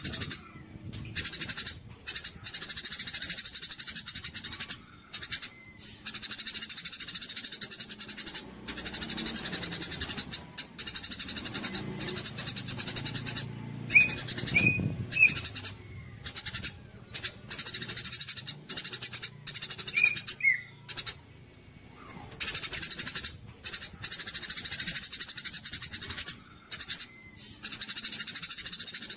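Songbird song: long phrases of rapid, very high-pitched buzzy trilling chatter, broken by short pauses, with a few brief down-slurred whistled notes in the middle.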